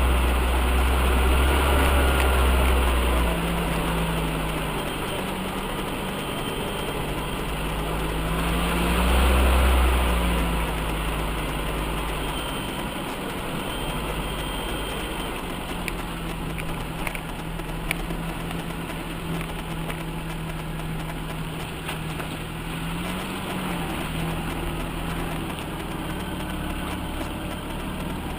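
UAZ off-road vehicle's engine running at low revs, with a heavy rumble in the first few seconds and a brief rise around nine seconds in, then settling to a steady idle.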